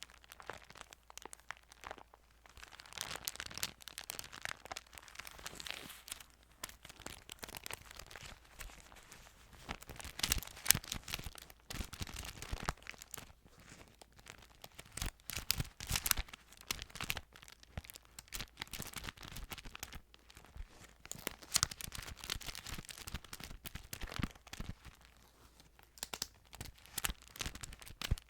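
Close-miked handling of a Bible's thin paper pages: irregular crinkling and rustling with many sharp clicks.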